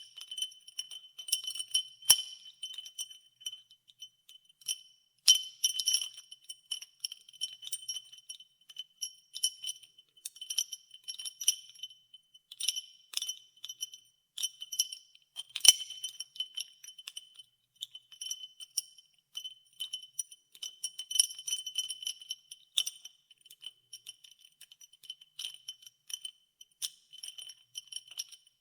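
Ice cubes clinking and rattling against the sides of a glass of ice water as it is stirred, in continual irregular clinks with a bright ringing tone.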